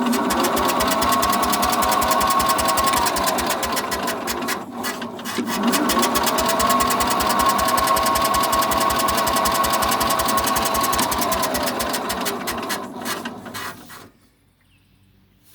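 Garden tractor starter cranking the engine on full choke and full throttle without it catching: a no-start. There are two long cranking tries, the first about five seconds and the second about eight, with a short pause between, and then it stops.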